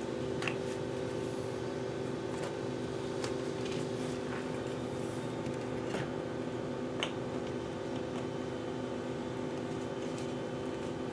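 A steady low hum, like a fan or other running appliance, with light clicks and taps every second or two as small RC car parts and tools are handled.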